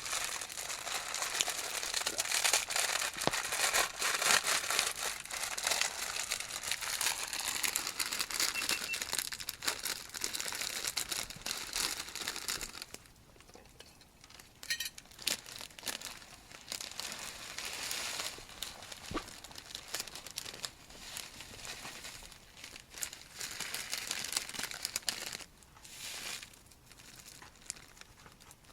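Plastic packaging crinkling and rustling as it is handled: dense for the first dozen seconds or so, then quieter and in scattered bits.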